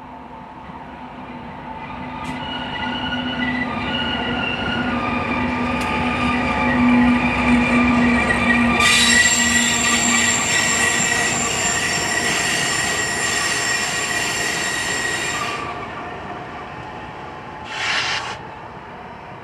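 BNSF train passing close, its wheels squealing against the rails. The sound builds over the first few seconds, and a shrill squeal sets in about nine seconds in and cuts off suddenly some six seconds later. A short screech follows near the end.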